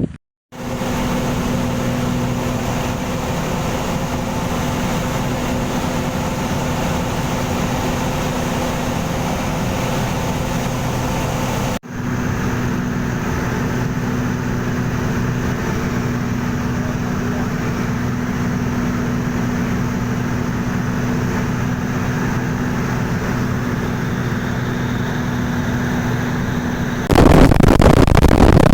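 A motor vehicle's engine running steadily, a constant hum. It gives way near the end to a louder, even rushing noise.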